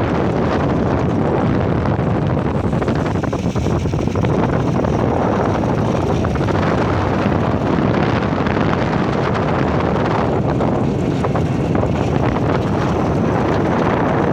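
Steady rush of wind on the microphone with a motor running underneath, as when travelling at speed.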